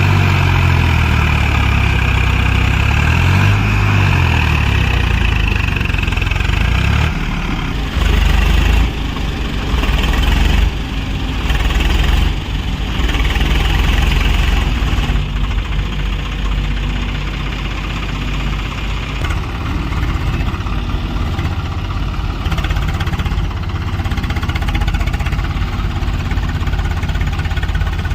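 Heavy diesel engine running steadily near idle, with a few short louder surges in engine speed around the middle.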